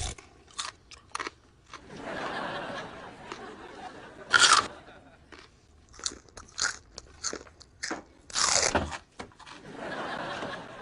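Loud, crunchy chewing: a string of sharp crunches and bites of crisp food, with noisy chewing between them and two especially loud bites about four and eight and a half seconds in.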